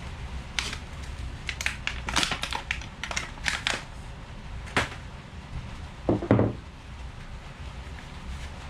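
Hand work noises: a run of sharp clicks and scrapes, then a heavier dull thump about six seconds in.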